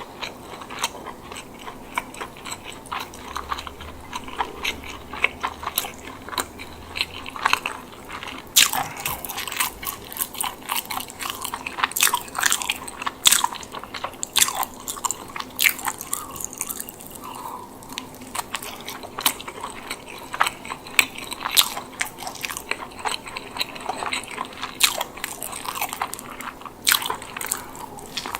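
Close-miked eating of a chicken bake: bites into the crisp baked crust and chewing, with many sharp crackles and crunches throughout.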